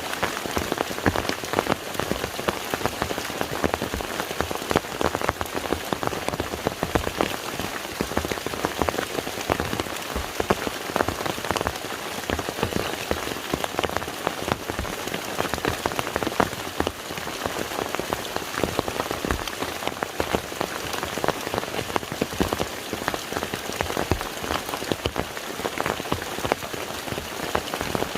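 Steady rain falling on a lake's surface: a dense, even patter of countless individual drops hitting the water.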